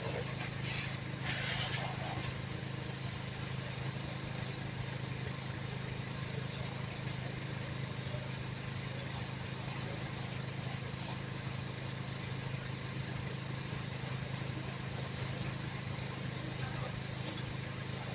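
An engine running steadily at idle, a constant low hum, with a few short clicks in the first couple of seconds.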